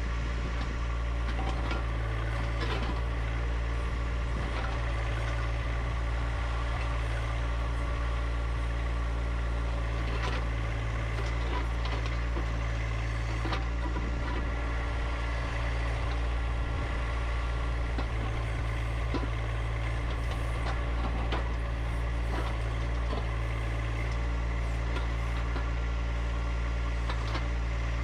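Compact diesel tractor engine running steadily at a constant speed, with scattered light knocks and clicks over it.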